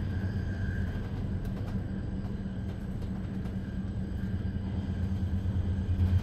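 Zürich S-Bahn double-deck DPZ train with its Re 450 locomotive running, heard inside the passenger cabin: a steady low hum and rumble with a faint higher whine. The rumble eases in the middle and grows louder again near the end.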